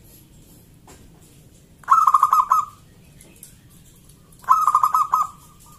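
Zebra dove (perkutut) calling twice, each call a quick run of rapid cooing notes lasting under a second.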